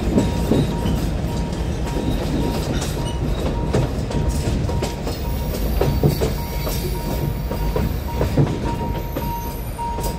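Alishan Forest Railway narrow-gauge train running slowly, heard from inside its open-windowed cypress-wood carriage: a steady low rumble of the wheels on the rails with irregular clacks over rail joints.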